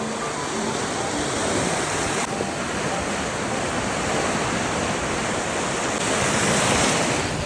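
Ocean surf washing in at the beach, a steady rushing noise of breaking waves that swells louder near the end.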